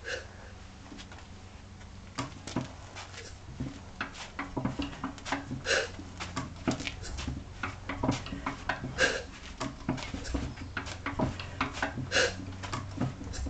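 Antique Masure et Deltour stationary gas engine running, with a steady low hum and a busy clatter of clicks and knocks that picks up about two seconds in, and a louder beat about every three seconds.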